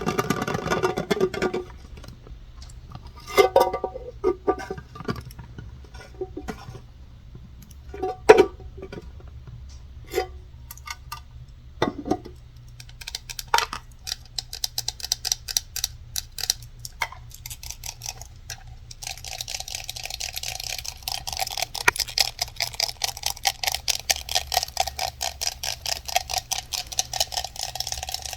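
Fingers tapping and scratching on hard objects such as wood for ASMR. First come scattered single taps, a few with a short ring. In the second half these become fast, continuous ticking taps and scratching.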